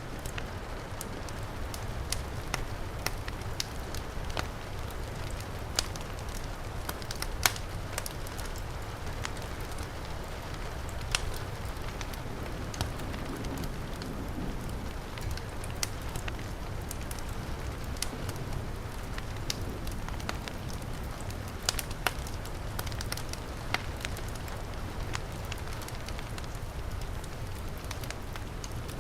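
Wood fire crackling and popping with irregular sharp snaps, over a steady hiss of heavy rain.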